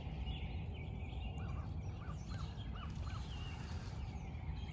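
Wild birds calling: a run of five short, quick notes in the middle, with fainter chirps higher up, over a steady low rumble.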